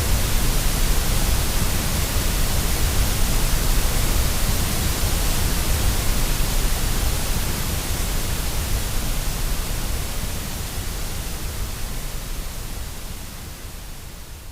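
Steady white-noise hiss with a deep rumble beneath it, played to soothe a baby to sleep. It fades slowly over the second half and is much quieter by the end.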